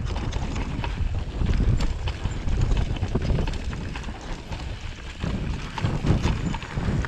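Mountain bike rolling down a rough, rocky trail: tyres rumbling over dirt and stones, with frequent knocks and rattles from the bike and wind buffeting the microphone.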